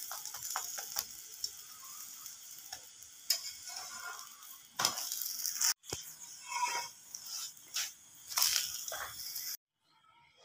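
Ghee sizzling under a stuffed radish paratha frying on a hot iron tawa, with scrapes and taps of a metal spatula against the pan. The sizzling cuts off suddenly near the end.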